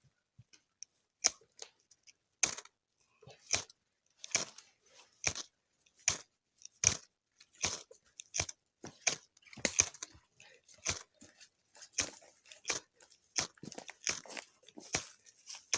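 A ferro rod being struck with a scraper, over and over: short, sharp rasping scrapes about once every second or less, about twenty in all, coming a little faster in the second half.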